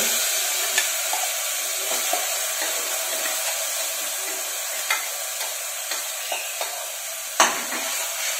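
Hot oil sizzling steadily as ground coconut masala paste is scraped by spoon from a steel mixer jar into a pot of fried garlic, with a few light spoon clinks and a sharper clack near the end.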